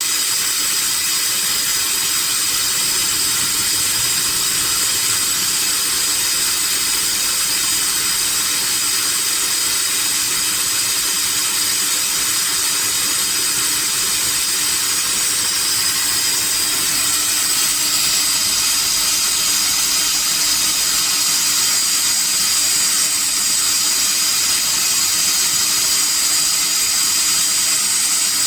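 CNC machining center engraving lettering into a gold brick: a steady high-pitched spindle whine over a constant hiss of cutting.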